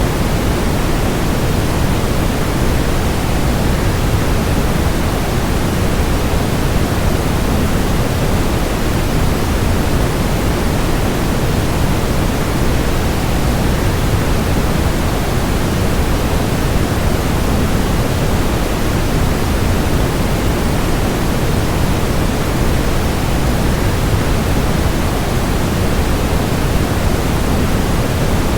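Waterfall: a steady rush of falling water, even throughout, with most of its weight in the low end.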